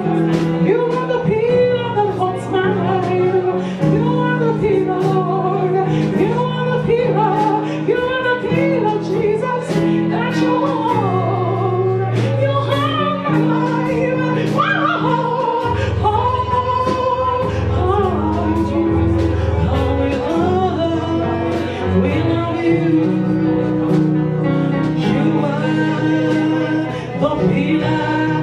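Gospel worship song: singers over sustained keyboard chords and a bass line, with a steady beat.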